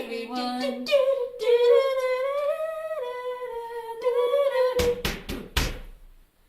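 A woman's voice humming a tune wordlessly and unaccompanied, ending on a long held note, followed by a few quick knocks just before it goes quiet.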